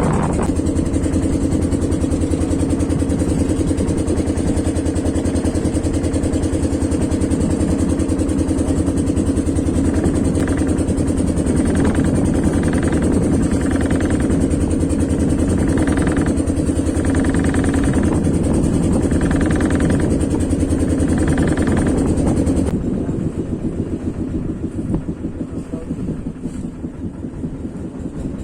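A boat's engine running steadily with a constant low hum. About 23 seconds in it becomes quieter and rougher.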